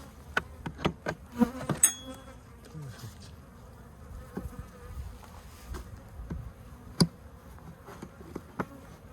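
Honeybee colony buzzing steadily, mixed with many short clicks and knocks from the birdhouse being worked open; one sharp knock stands out about seven seconds in.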